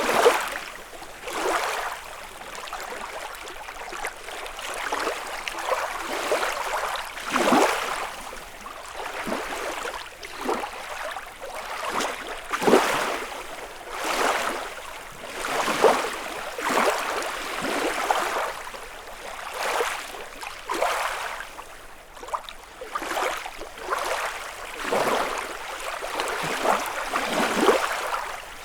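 Small lake waves lapping and splashing on the shore, an irregular run of splashes every second or two.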